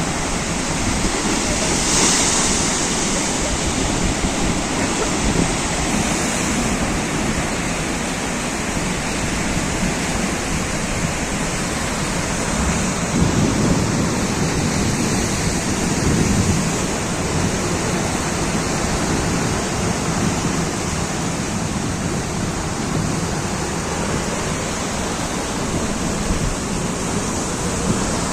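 Sea waves breaking and washing ashore: a continuous rush of surf that swells and eases as the waves come in, with wind buffeting the microphone.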